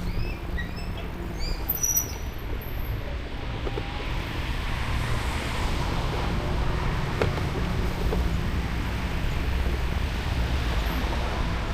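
Steady low wind rumble on the microphone of a moving e-bike, mixed with passing road traffic, growing slightly louder after a few seconds. A few short bird chirps sound in the first two seconds.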